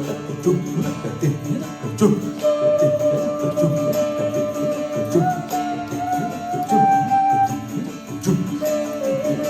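Carnatic music: a flute plays long held notes that step up in pitch in the middle and drop back near the end, over dense hand-drum strokes and a steady drone.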